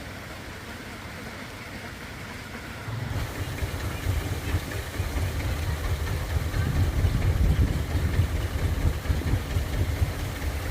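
A vehicle engine running with a low, pulsing rumble that starts abruptly about three seconds in and grows louder.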